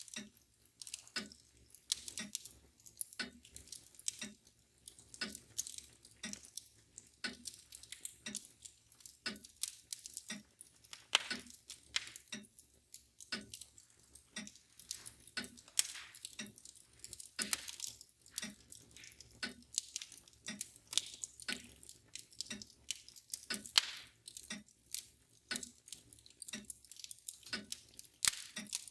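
Wood fire crackling with irregular sharp pops and snaps, over the steady, even ticking of a mantel clock.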